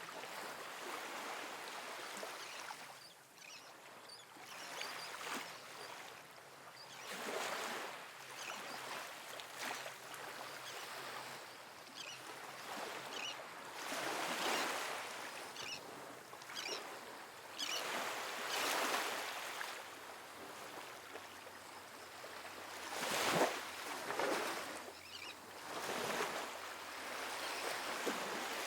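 Small, gentle ocean waves washing onto a sandy beach: a steady wash of surf that swells and falls every few seconds, with the light fizz of foam and a few sharper splashes near the end.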